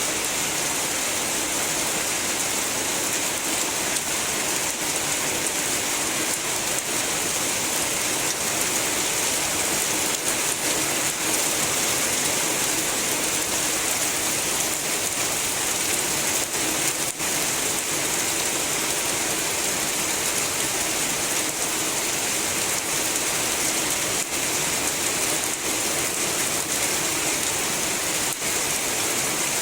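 Heavy rain falling in a steady, even hiss that holds without let-up.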